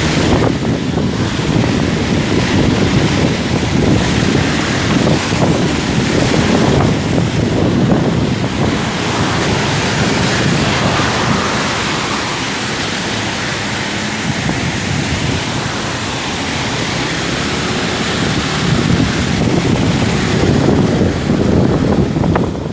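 Wind buffeting the microphone on a moving motorcycle, a loud steady rush with the ride's engine and road noise mixed in, easing a little midway.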